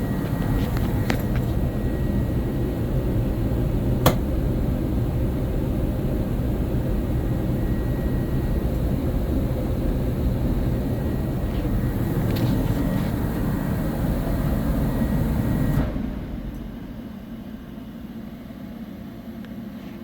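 Steady low mechanical rumble with a sharp click about four seconds in; the rumble drops away sharply about sixteen seconds in.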